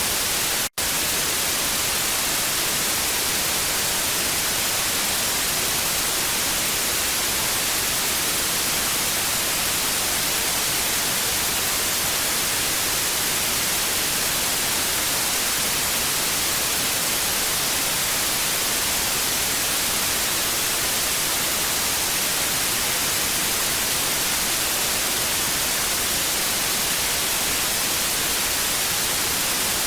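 Steady television static hiss, strongest in the treble, with a split-second dropout under a second in.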